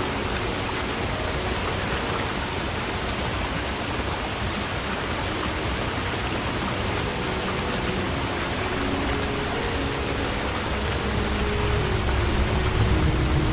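Forest stream running, a steady even rush of water. A low rumble builds in the last couple of seconds.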